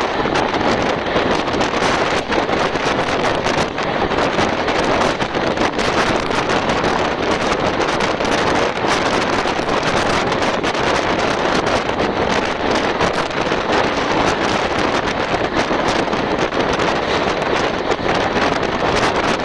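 Steady rush of wind at the window of a fast-moving express train, buffeting the microphone, over the train's running noise.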